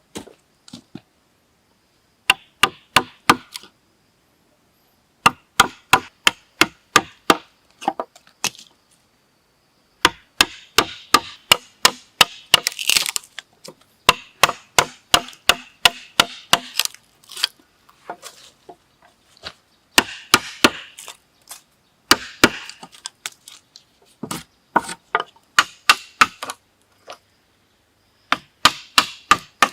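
Wood being struck hard and fast, sharp knocking blows coming in bursts of several strokes, about four or five a second, with short pauses between bursts.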